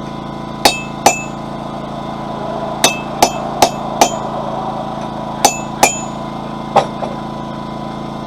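Hammer blows on a hot cut chisel cutting through a heated steel bar: nine sharp, ringing metal strikes in small groups (two, then four, then two, then one), over the steady drone of a running generator.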